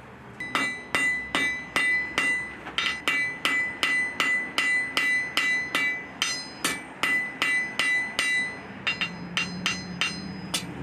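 Blacksmith's hammer striking steel on an anvil in a steady rhythm, about two or three blows a second, each blow leaving a clear metallic ring. Near the end the ringing stops and the blows come quicker and lighter.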